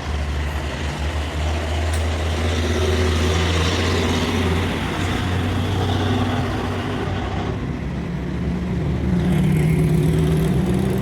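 Truck engine running, steady at first, then climbing in pitch and getting louder about eight to nine seconds in as it is revved.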